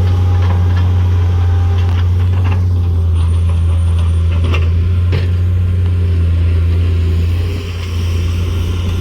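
A large engine running steadily with a deep hum, with several sharp knocks and clatters in the middle. The engine note eases slightly near the end.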